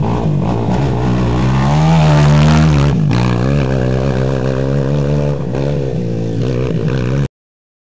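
Off-road racing motorcycle engine running hard, its pitch rising and falling as it revs and shifts, with a brief break about three seconds in; the sound cuts off abruptly near the end.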